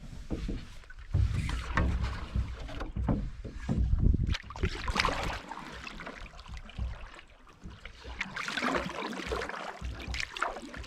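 Canoe under way on a lake: paddle strokes and water swishing against the hull, with wind rumbling on the microphone, heaviest in the first half.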